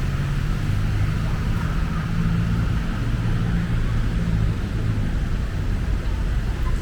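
A motor vehicle's engine running steadily over constant street traffic noise, its low hum easing off near the end.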